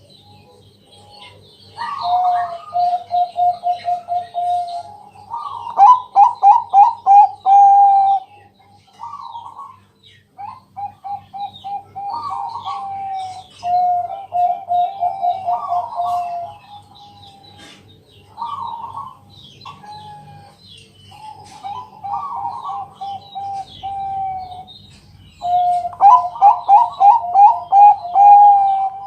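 Zebra dove (perkutut, Bangkok type) cooing: repeated phrases of quick staccato notes that settle into a lower rolling coo, phrase after phrase, loudest about six seconds in and again near the end.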